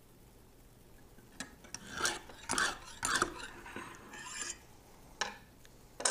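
Lansky extra-coarse honing stone drawn in strokes along an oiled knife edge. About five scraping strokes come close together starting about a second and a half in, then two shorter scrapes near the end.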